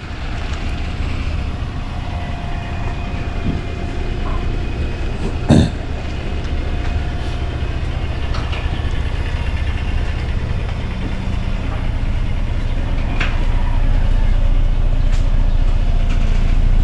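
A vehicle's engine running at low speed while it is manoeuvred, the rumble growing louder in the last few seconds. A single sharp knock sounds about five and a half seconds in.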